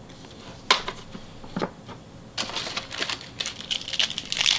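Two light clicks of cards being handled, then from about halfway a dense, crackly crinkling that grows louder: a trading-card pack wrapper being handled and torn open.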